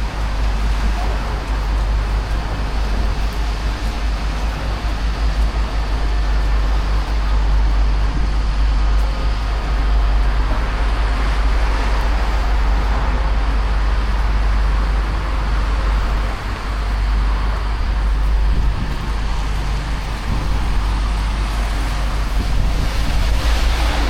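Steady road traffic on the Tyne Bridge, cars passing close by, with a constant low rumble underneath.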